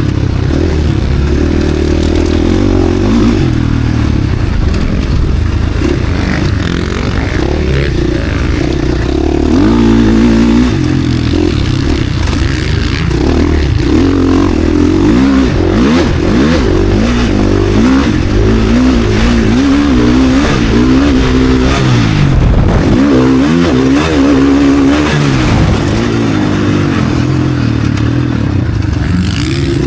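KTM SX-F four-stroke motocross bike engine revving hard and continuously, pitch rising and falling repeatedly as the rider opens and shuts the throttle through the gears.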